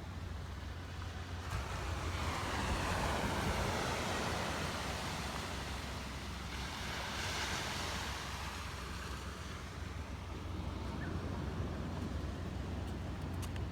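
Sea waves breaking and washing up a beach, the surf rising and falling in a couple of swells, with wind rumbling on the microphone.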